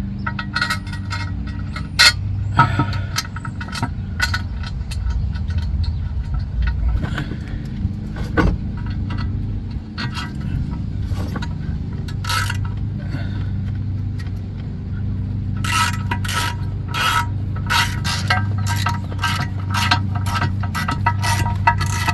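Hand tools working on transmission pan bolts: scattered metal clinks and scrapes, then quick runs of ratchet clicking over the last several seconds, over a steady low hum.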